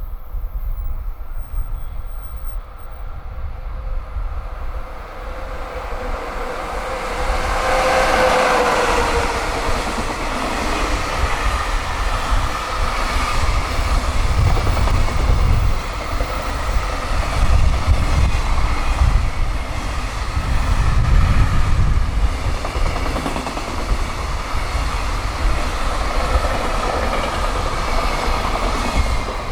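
An EF66 electric locomotive hauling a high-speed freight train passes at speed. The locomotive comes by about eight seconds in with a brief falling tone, then the wagons rush past with a steady clatter over the rails. Gusting wind rumbles on the microphone.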